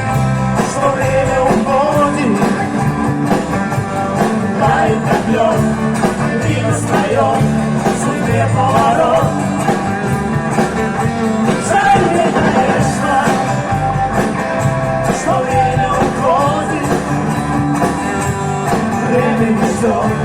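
A live band playing a rock-style song with a steady beat.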